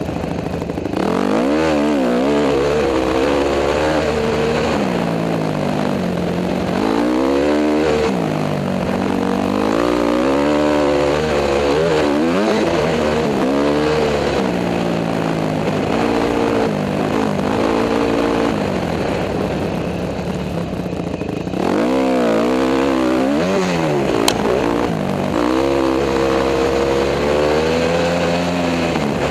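Honda CRF250 dirt bike's single-cylinder four-stroke engine under way, revving up and dropping back again and again as the rider works the throttle and gears, heard from a helmet-mounted camera. A single sharp tick a little after two thirds in.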